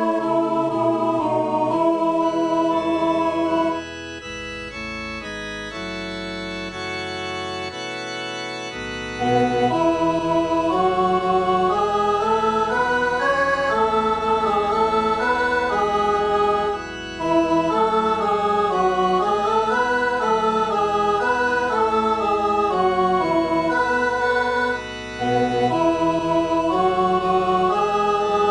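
Four-part hymn harmony played in steady, held organ-like tones as a practice track for the alto part of a Christmas carol. A quieter passage about four seconds in gives way to full chords about nine seconds in, with brief breaks between phrases near the middle and toward the end.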